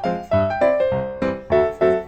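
Background music: a piano-like keyboard melody of separate struck notes, each fading away, about three a second.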